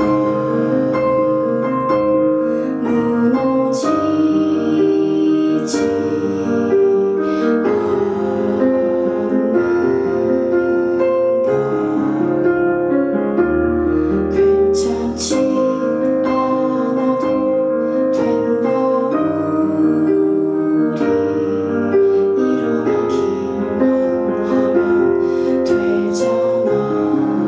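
Live performance of a slow ballad led by piano chords over bass notes, with occasional cymbal strokes.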